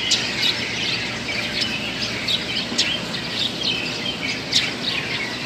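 Birds chirping, with many short, overlapping chirps and tweets.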